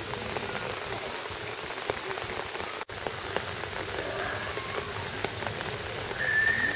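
Steady rain falling, with separate drops ticking now and then. The sound cuts out for an instant just under three seconds in.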